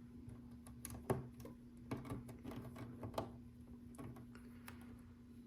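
Small plastic LEGO pieces clicking and tapping as they are handled and pressed onto the mosaic, a series of irregular light clicks with the sharpest about a second in.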